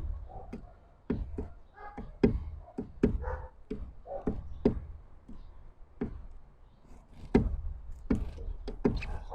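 Irregular knocks and taps on a wooden bird feeder, about two or three a second, with short pauses.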